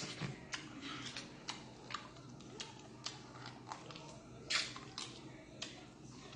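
Wet chewing and biting as meat is gnawed off a beef short rib from galbitang: a string of short, irregular smacks, with a louder one about four and a half seconds in.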